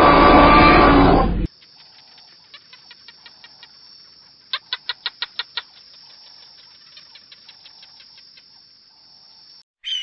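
A deep animal roar, a dinosaur sound effect, cuts off about a second and a half in. Quiet rapid chirping follows over a steady high hiss, with a louder run of about eight quick chirps in the middle.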